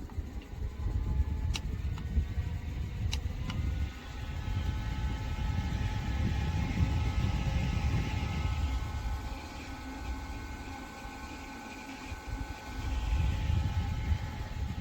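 Small battery-powered desk fan running, its air buffeting the microphone in an uneven low rumble. A few sharp clicks come in the first few seconds; from about three and a half seconds a steady whine of several tones joins in.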